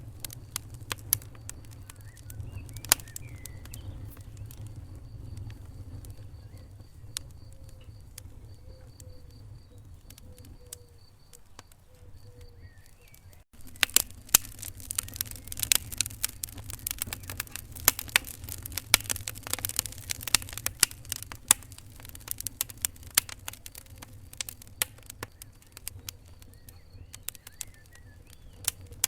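Wood fire crackling and popping in a fireplace over a low, steady rumble of flames. The audio drops out for an instant about halfway through, and the pops then come much faster.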